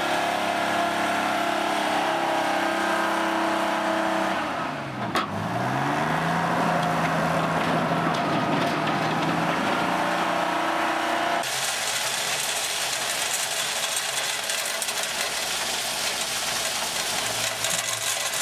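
Engine of an earth-moving machine running steadily. About five seconds in its pitch dips sharply and comes back up, as if under load. About eleven seconds in the engine sound cuts off abruptly, giving way to a steady rushing hiss.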